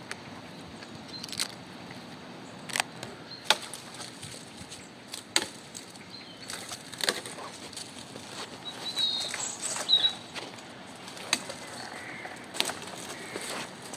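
Dry wooden sticks knocking and snapping as they are handled, with irregular sharp cracks every second or two over a steady background hiss.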